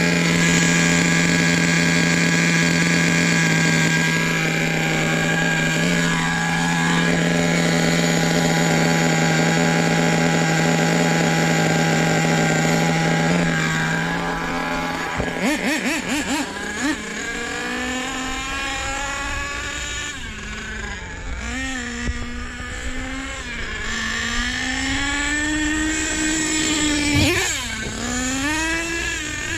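Small nitro engine of an RC truck running. It holds a high, steady note for about fifteen seconds, then drops and wavers up and down unevenly for the rest.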